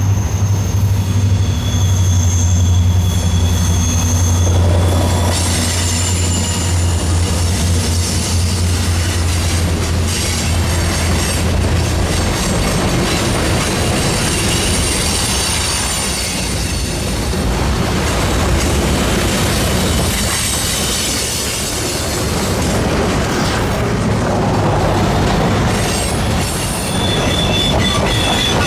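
Freight train passing behind two EMD SD60 diesel locomotives. The locomotives' engines drone for about the first twelve seconds, then the freight cars roll by with wheel-on-rail clatter and high-pitched wheel squeal.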